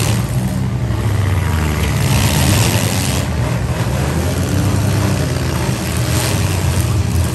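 Several bone-stock compact demolition derby cars' engines running loud and revving, a dense steady engine drone.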